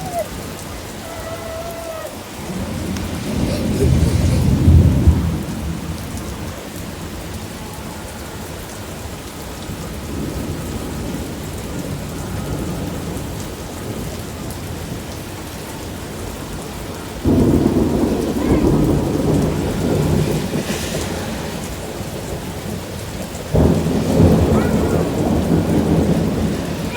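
Heavy storm rain pouring steadily. Three loud low rumbles rise over it: the first a few seconds in, the others starting suddenly about two-thirds of the way through and near the end.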